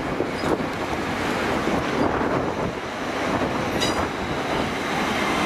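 GWR Class 800 Intercity Express Train passing close by as it pulls out, with a steady rumble of wheels on rails and a few faint clicks from the track.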